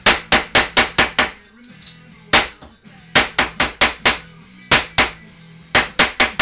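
Hammer striking a metal beer bottle cap to flatten it: quick runs of sharp blows, about five a second, broken by short pauses and single blows.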